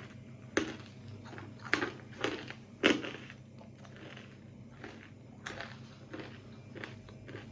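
Someone chewing crispy coated peanuts with the mouth close to the microphone: a run of sharp, irregular crunches, the loudest in the first three seconds, then softer chewing.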